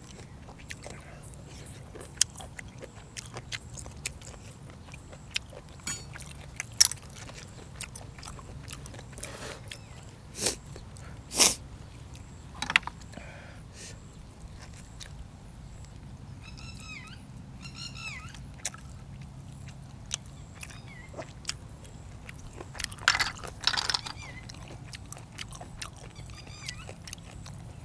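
Close-up chewing and biting of food, with scattered sharp clicks and several loud crisp crunches, the loudest near the middle and again near the end.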